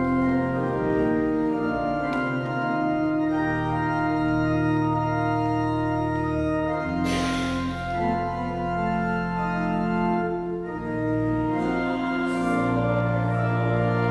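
Church organ playing slow, sustained hymn chords that change every second or two. A brief noise cuts through about halfway.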